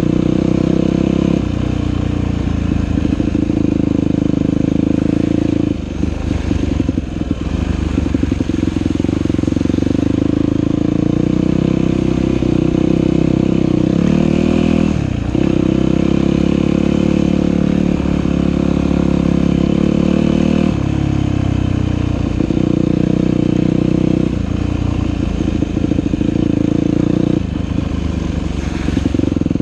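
Dirt bike engine running loud under throttle on a trail ride, the revs holding steady and then easing off and picking back up several times, with one clear drop in pitch about halfway through.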